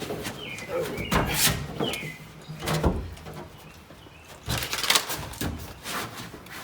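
Sound-deadening mat being handled and pressed into place: a run of crinkles, taps and knocks with a few brief high squeaks in the first two seconds.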